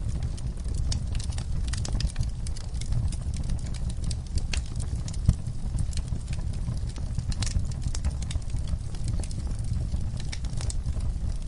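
Wood fire crackling: a constant scatter of small snaps and pops over the low rumble of the burning fire, with one louder pop about halfway through.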